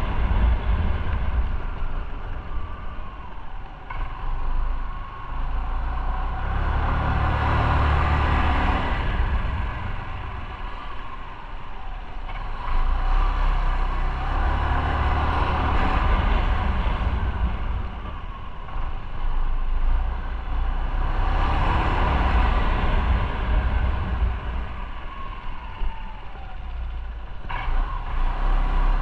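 Motorcycle under way: engine rumble and rushing wind noise that swell and ease several times as the bike speeds up and slows.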